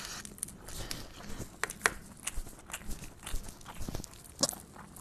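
A person eating rice by hand: open-mouthed chewing of a full mouthful, with irregular wet smacking clicks.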